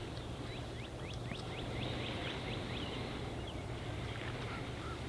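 A bird gives a quick run of about a dozen short, high, sliding chirps in the first three seconds, then a few fainter notes. A low, steady outdoor rumble runs underneath.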